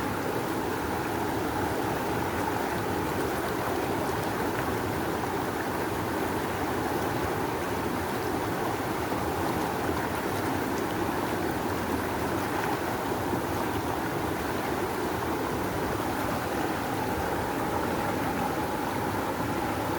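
Fast-flowing river rushing steadily, a dense, even roar of water.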